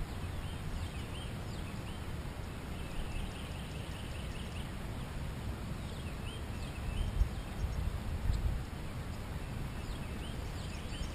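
Birds calling in short curved chirps, with a quick run of repeated notes about three seconds in and more calls later, over a steady low rumble.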